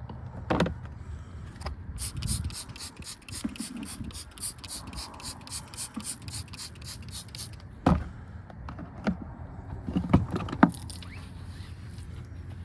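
A brush scrubbing in quick, even strokes, about four a second, for several seconds. A few knocks and thumps come about a second in and again near the end.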